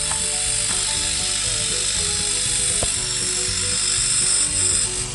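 New refrigerator compressor switched on for a bench performance test, running with a fast rattling buzz under a loud steady hiss; it is pumping strongly.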